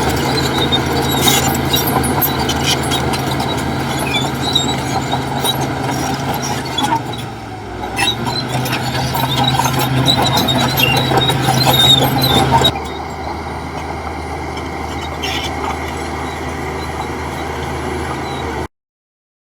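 Heavy diesel machinery running steadily, with scattered high squeaks over the engine. Partway through, the sound changes suddenly to a steadier, quieter running, and it cuts off abruptly near the end.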